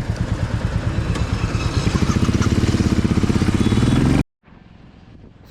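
Motorcycle engine running with a fast, even beat, then revving up as it pulls away, the pitch climbing steadily before it cuts off suddenly about four seconds in.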